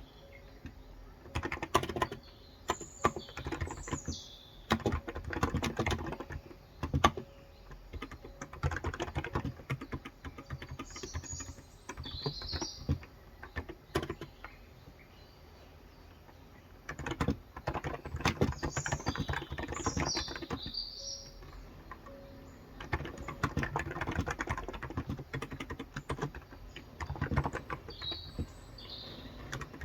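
Typing on a Cox Endeavour tenkeyless keyboard with 35 g electro-capacitive (Topre-style) switches: bursts of quick keystrokes with a pause of a few seconds in the middle. A bird chirps short high phrases four times in the background.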